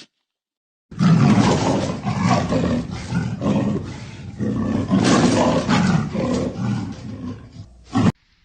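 A large animal roaring in rough, uneven surges for about seven seconds, starting abruptly about a second in and cut off sharply near the end.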